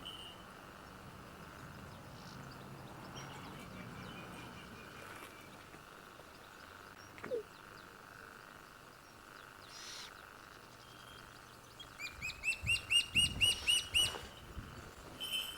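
Birds calling: scattered faint calls, then near the end a loud, rapid run of about ten sharp rising calls, roughly five a second. A faint steady hum lies underneath.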